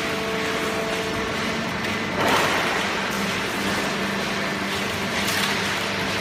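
HPAC100 full-automatic plastic bottle baler running: a steady machine hum with a constant noisy clatter. There is a louder rush about two seconds in.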